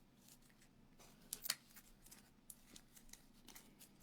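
Faint clicks and light rustling of trading cards being handled and shuffled, with a couple of sharper clicks about a second and a half in.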